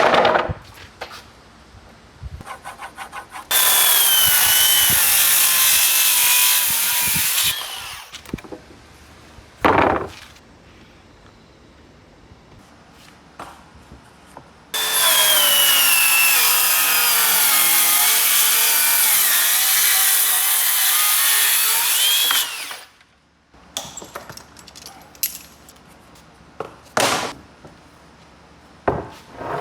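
Electric power tool cutting wood in two long runs, the first about four seconds and the second about eight, its whine wavering in pitch under load. Short knocks of wood being handled come between and after the runs.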